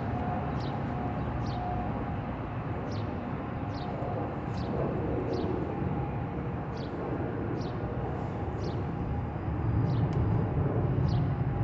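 Low steady rumble of a train, with a bird chirping over it: short high chirps repeating a little under once a second.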